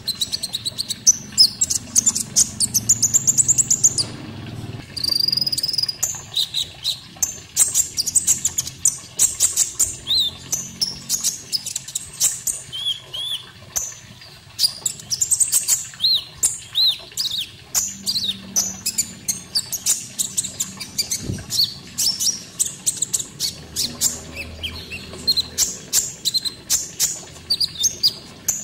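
Konin birdsong on a masteran (song-tutoring) recording: rapid high-pitched chirps, ticks and short trilled phrases, several a second, with brief pauses between runs.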